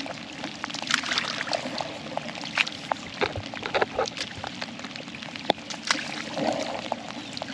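Light rain on and around a canoe: irregular sharp ticks of single drops, several a second, over a soft steady wash of water.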